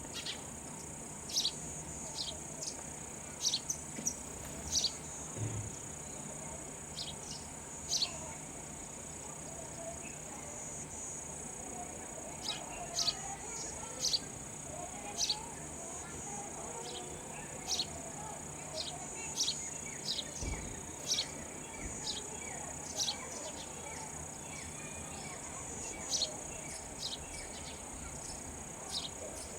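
Sparrow chirping: short, falling chirps repeated irregularly, one or two a second, over a steady high-pitched insect drone.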